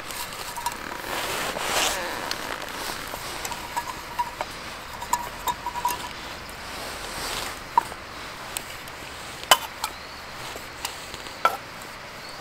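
Campfire crackling, with scattered sharp pops over a steady hiss; the loudest pop comes about two-thirds of the way through.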